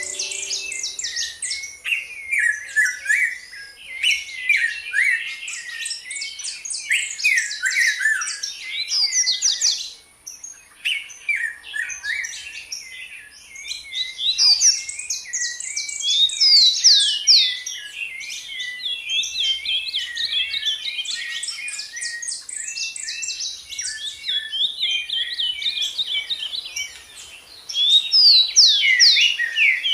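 Several songbirds singing and chirping at once in a dense chorus of short, overlapping calls and trills, with a brief lull about ten seconds in and another shortly before the end. A steady high hiss runs underneath.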